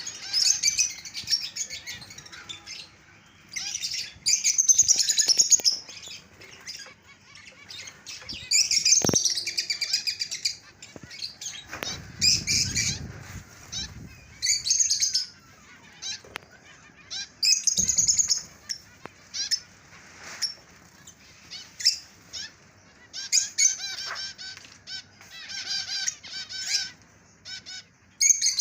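Aviary finches chirping in repeated bursts of rapid, high twittering, a burst every couple of seconds. There is a low rumble near the middle.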